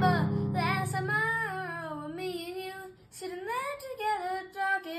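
A solo voice singing a slow melody in long, sliding held notes, with a low sustained accompaniment underneath that fades out about two seconds in.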